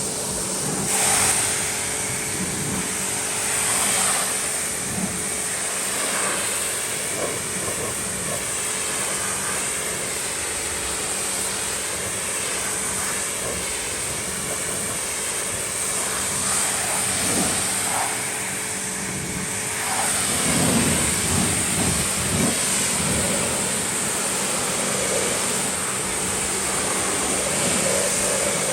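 Pressure washer spraying water onto a car, a steady hiss of spray over the machine's motor hum; the hum stops about twenty seconds in.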